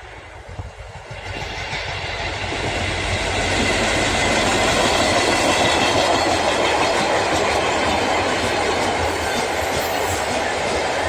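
Freight train approaching and passing, its wheels running on the rails. It grows louder over the first three or four seconds, then runs by at a steady level.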